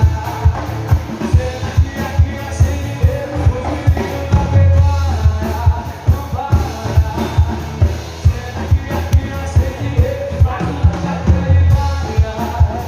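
Live sertanejo band music with a steady drum beat.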